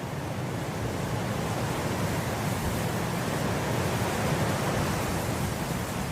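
Wind blowing through grass as a steady rushing noise, a gust swelling up to a peak about four seconds in and then easing slightly.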